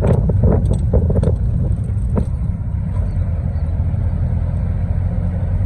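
Campervan engine and road noise heard from inside the cab, a steady low rumble, with a few clicks and knocks in the first two seconds.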